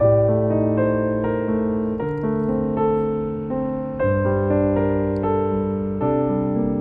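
Background piano music: slow, gentle chords struck about every two seconds, each fading away.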